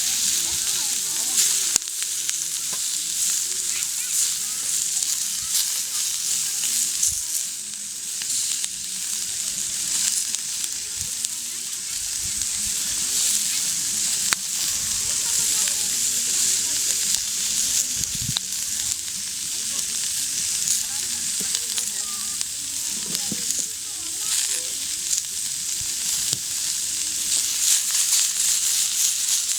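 Food sizzling steadily in a pan over a campfire, with scattered sharp pops and clicks.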